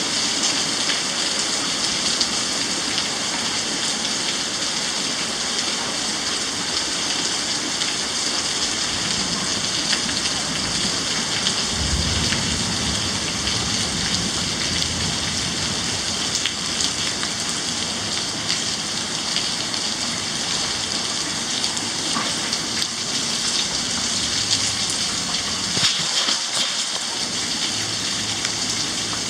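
Heavy rain falling in a steady, dense hiss during a thunderstorm, with a brief low rumble about twelve seconds in.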